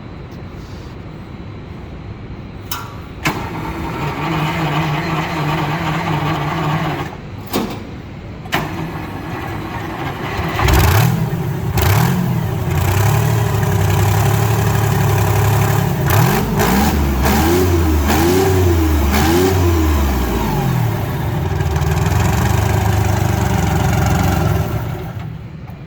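Detroit Diesel 12V71 two-stroke V12 diesel running loud through open 4-inch zoomie stacks. It is revved several times, its pitch rising and falling, and gets markedly louder about ten seconds in, then settles down near the end.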